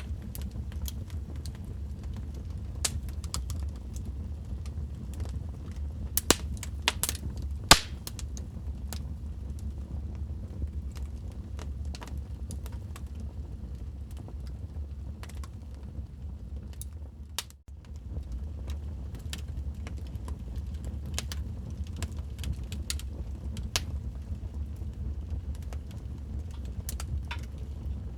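Wood fire crackling in a fireplace: a steady low rumble with frequent sharp pops and snaps, the loudest cluster about six to eight seconds in. The sound drops out for an instant about two-thirds of the way through.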